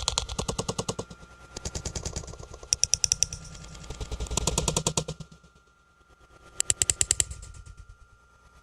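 Rapid clattering rattle in about five bursts of quick, even knocks, each burst lasting up to a second, over a faint steady tone.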